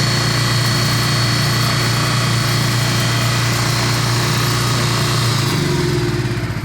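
Generac QuietPact 40 RV generator running steadily after a cold start on its automatic choke, with a loud low hum and a thin high whine. Its running is louder than a belt-drive generator. Near the end the sound changes and begins to die away.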